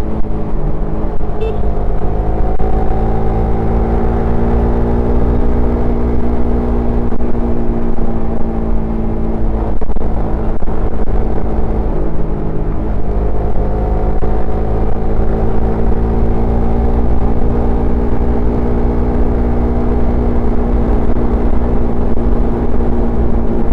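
Suzuki Satria FU FI's single-cylinder engine and exhaust running steadily while riding, the engine note easing down and climbing again a little with the throttle.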